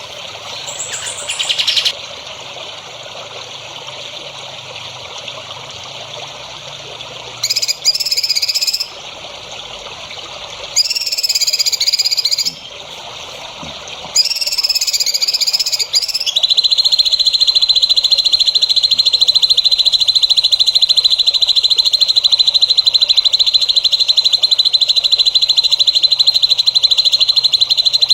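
Songbird masteran (training) recording: four short bursts of high warbling chirps, then a long, steady, high-pitched trill for the last dozen seconds, over a faint steady hiss of trickling water.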